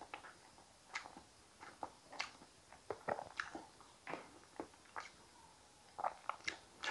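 Faint, scattered wet mouth clicks and smacks of chewing soft sweet potato close to a lapel microphone, mixed with light clicks of wooden chopsticks working through thick soup.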